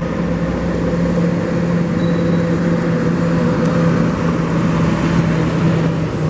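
Engine running steadily, a constant low hum with a wash of noise over it, dipping briefly near the end.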